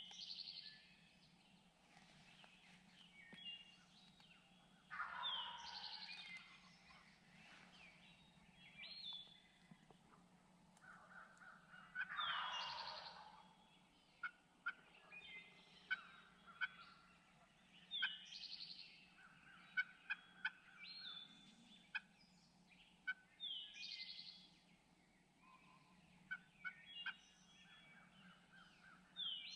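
Wild turkey gobblers gobbling several times, the long rattling gobbles coming a few seconds apart, with smaller birds chirping in between.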